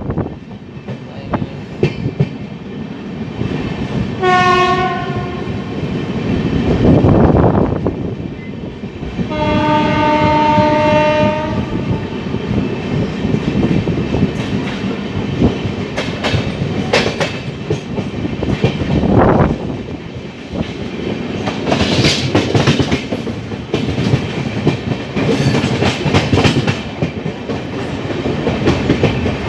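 Passenger train running on the rails, with the clickety-clack of wheels over rail joints. A train horn sounds twice: a short blast about four seconds in and a longer, lower blast from about nine to eleven seconds.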